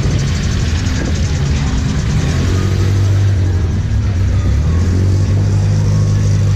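A car engine running with a loud, deep, steady rumble, with music playing alongside.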